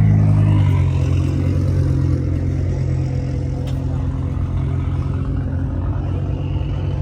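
Car engine running at low revs, a steady deep drone that eases off slightly about a second in.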